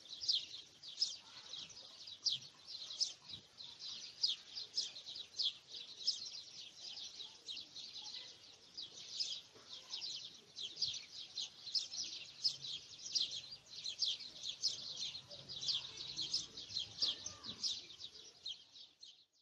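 Birds chirping: an unbroken stream of short, high chirps, several a second, that stops suddenly near the end.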